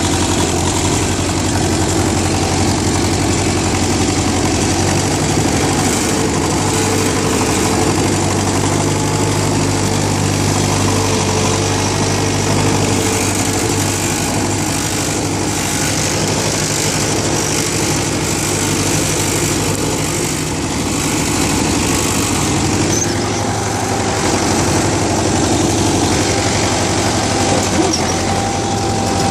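David Brown 995 tractor's three-cylinder diesel engine running at a steady idle, just after a cold start.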